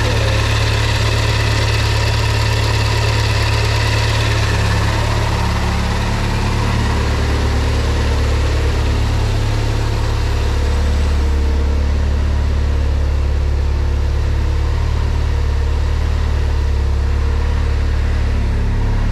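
Turbocharged Honda S2000 four-cylinder, running on E85 through Injector Dynamics ID1300X injectors, idling steadily while it warms up after a cold start. The idle is smooth and even.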